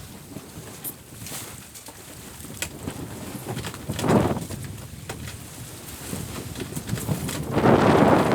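Wind and water noise aboard a sailboat under way, with a brief surge about four seconds in and a louder rush of noise for the last second or so.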